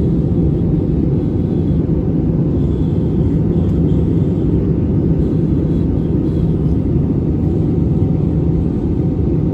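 Loud, steady low rumble of a moving vehicle with a constant low hum, starting suddenly.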